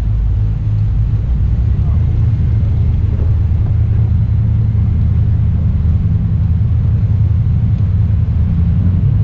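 Jet boat engine running steadily at speed, a deep, even drone with no breaks.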